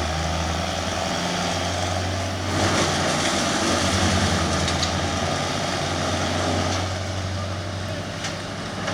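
Chainsaws running over the steady low drone of a truck's engine. The noise swells from about two and a half seconds in and eases off near the end.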